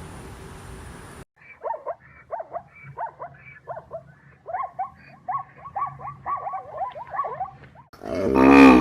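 Animal calls: a run of short, high yelps, each falling in pitch and coming faster toward the end, then a much louder, lower drawn-out call beginning near the end.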